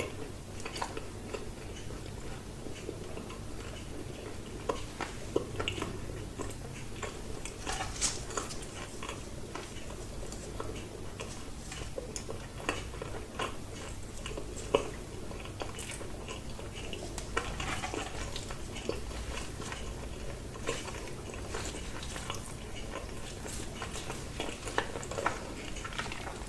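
Close-miked eating: chewing and biting of crunchy vegetables and bread, with many small wet crunches and clicks at an irregular pace and a few louder bites.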